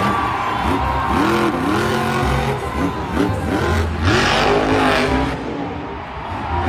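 Car engine revving up and down in repeated swoops, like a racing-car sound effect, with a burst of hiss about four seconds in.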